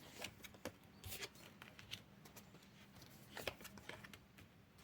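Faint rustles and light clicks of tarot cards being handled.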